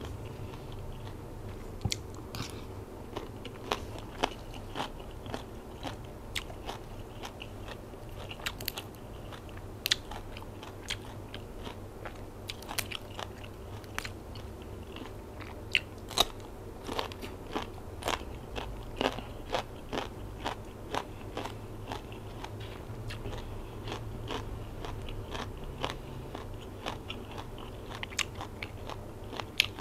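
Close-up chewing with many sharp, irregular crunches: a mouthful of spicy Isan silkworm-pupa salad and raw vegetables such as yardlong beans being eaten close to a clip-on microphone.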